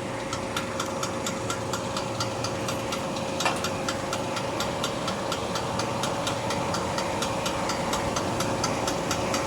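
A display chiller's refrigeration compressor, switched off with no voltage at it, gives a steady hum with a regular ticking knock about three to four times a second, and one louder click about three and a half seconds in. This noise comes only while the compressor is off and stops when it runs; it is the fault for which the compressor is being replaced.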